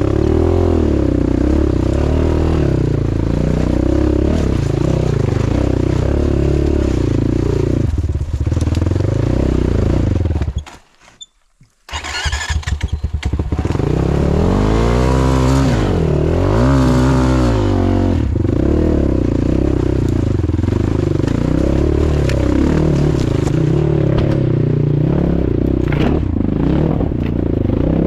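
Motorcycle engine running under load, its revs rising and falling repeatedly as it is ridden. The sound drops away for about a second near the middle, then the engine revs up again.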